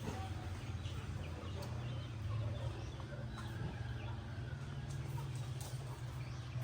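Chickens clucking over a steady low hum.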